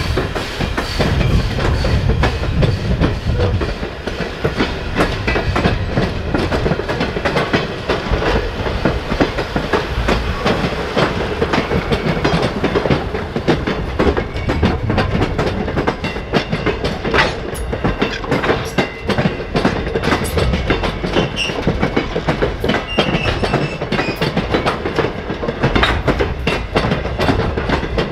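A train rolling past, its wheels clicking steadily over the rail joints.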